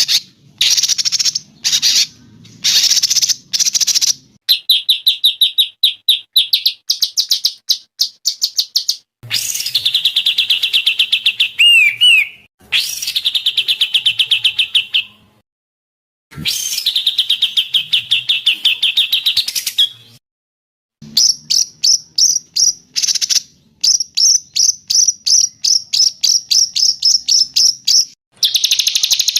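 Songbirds singing in a run of rapid trills, rattles and fast strings of high repeated notes. The segments change abruptly from one song type to the next, with a brief silence twice.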